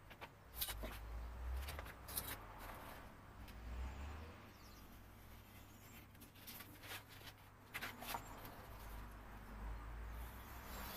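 Faint handling noises of paper work with a ruler and craft blade on an atlas page: a few sharp clicks and soft scraping, with low bumps underneath.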